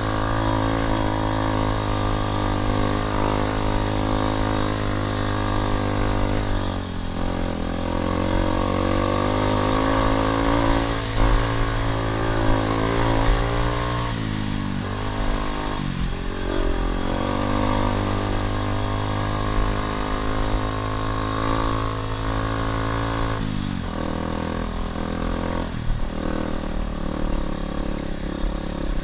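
Dirt bike engine running while riding, its pitch falling sharply and climbing again several times as the revs change.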